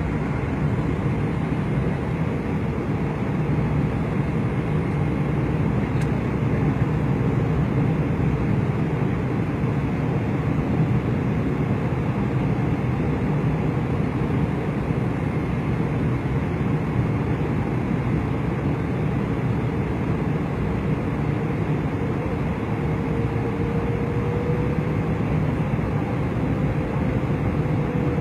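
Steady roar inside a jet airliner's cabin, the engines and rushing air heard through the fuselage on the approach to landing. A faint tone comes in over the roar late on and rises slightly in pitch.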